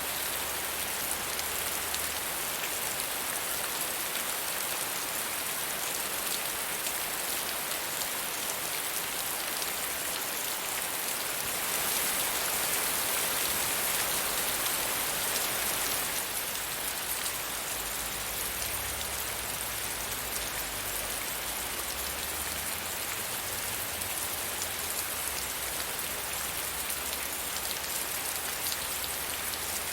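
Soft rain falling steadily, many small drops pattering on a surface, swelling slightly for a few seconds in the middle.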